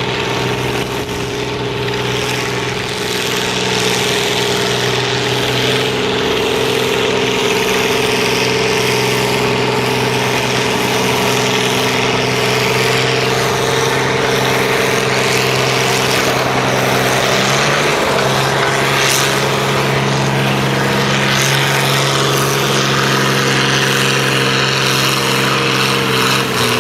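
Oliver 1655 tractor's diesel engine running hard under load as it pulls a track sled, with a loud, steady note. The pitch sags slightly about two-thirds of the way through, and the sound falls off right at the end.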